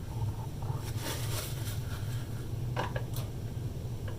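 A few light clicks and taps of plastic control knobs being handled and fitted onto the radio's shafts, over a steady low hum.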